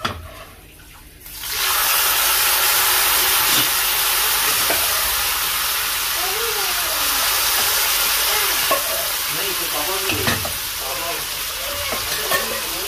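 Boiled chana dal poured into hot oil with cumin and chili flakes in a steel pan: a loud sizzle starts about a second and a half in and keeps going as the wet lentils fry, with a few light knocks of a utensil.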